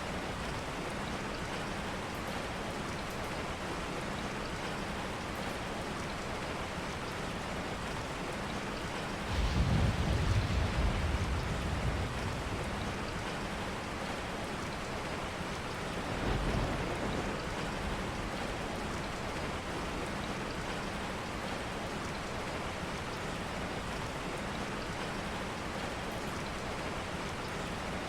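Steady rain falling, with a low rumble of thunder about a third of the way in that lasts a couple of seconds, and a weaker, shorter rumble a few seconds later.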